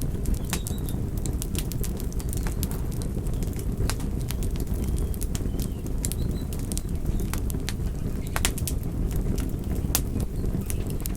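Campfire crackling: sharp, irregular pops and snaps over a steady low rush of burning wood.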